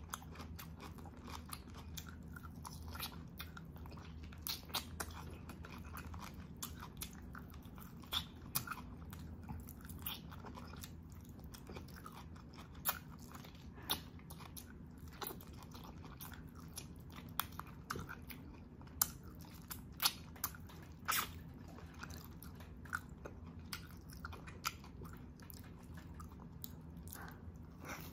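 Close-miked eating: a person chewing and biting into braised beef oxtail, with sharp wet mouth clicks and crisp crunches scattered throughout, over a steady low hum.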